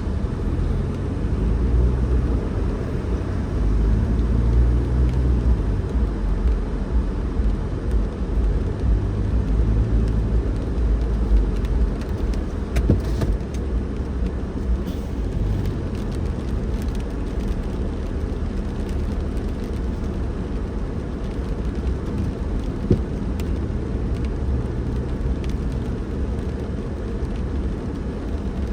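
A car driving along a road: a steady low rumble of engine and tyres that swells and eases a little now and then.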